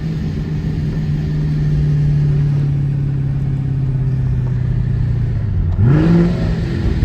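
Car engine running steadily, its pitch slowly sinking as it eases off, then revving up sharply about six seconds in.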